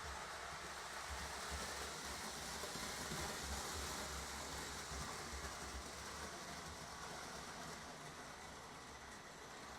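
Lionel O gauge model trains running on the layout's three-rail track: a steady whir and rumble of motors and wheels that grows louder in the middle and eases near the end.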